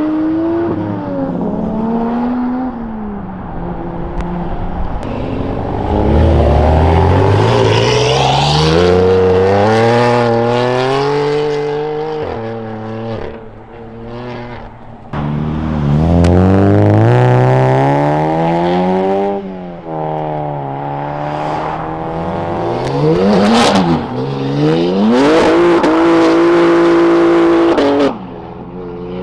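Engines of modified cars revving hard and accelerating away one after another, their pitch repeatedly climbing and dropping back.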